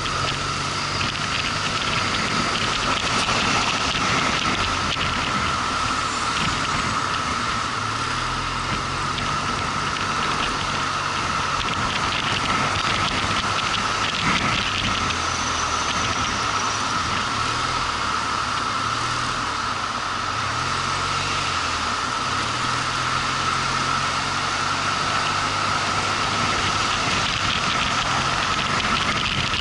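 Motorcycle engine running while riding, with heavy wind rush over it. The engine note shifts up and down several times as speed changes, and a steady high whine runs underneath.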